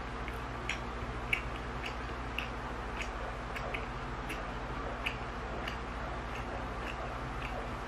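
Close-miked chewing of chewy tteokbokki rice cakes: soft, irregular wet mouth clicks, about two a second, the loudest a little over a second in. A steady low hum from an electric pan runs underneath.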